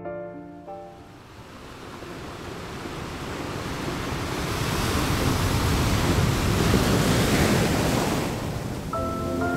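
Outdoor nature ambience: a steady rushing noise, like surf or wind, that swells over several seconds and eases off again. Soft piano notes fade out at the start and come back in near the end.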